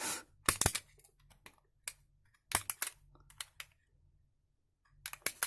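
Soft plastic of a cheap power strip housing being cut and trimmed to widen its holes: short, sharp scraping clicks in irregular clusters with brief pauses between them.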